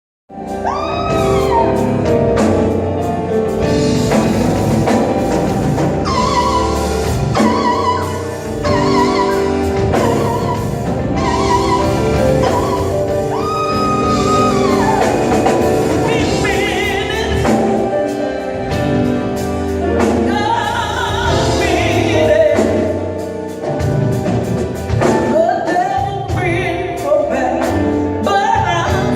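Live gospel singing with a full band accompanying: a solo voice holding long notes with wide vibrato over bass and drums.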